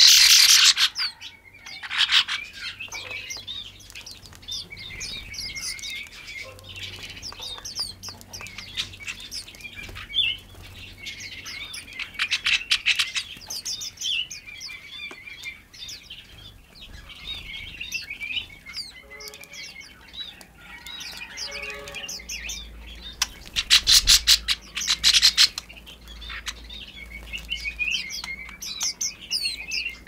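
Small songbirds chirping and twittering almost without pause. Several louder bursts of rapid chatter stand out, at the very start, around twelve seconds in and around twenty-three to twenty-five seconds in.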